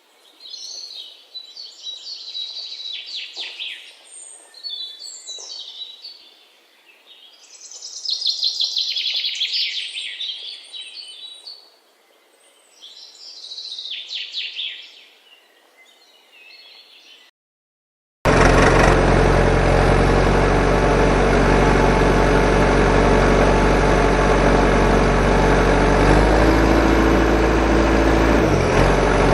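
Birds chirping in bursts for about seventeen seconds. Then, after a brief gap, an engine starts running steadily and loudly at idle, with a small dip in pitch near the end.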